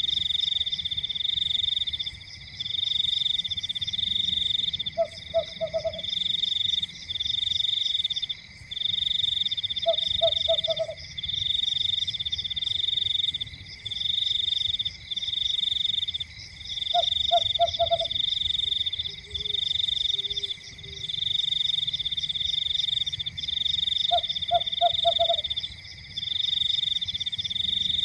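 Night chorus of frogs: a continuous high trilling in runs of a second or so with short breaks, over a steady fainter hum. A lower croak of three or four quick notes comes about every five to seven seconds, four times in all.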